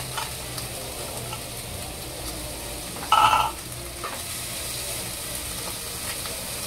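Corned beef and garlic sizzling steadily in hot oil in a frying pan as they are stirred. A brief high ringing sound about three seconds in is the loudest moment.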